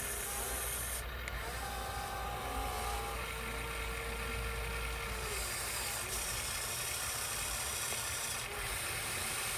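Radio-controlled scale truck running over dirt: a steady rubbing, hissing running noise with a faint whine that slides down about five seconds in.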